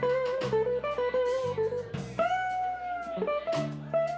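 Live blues band playing an instrumental passage: an electric guitar lead line over bass guitar and drums, with one guitar note held for about a second and sagging slightly in pitch about two seconds in.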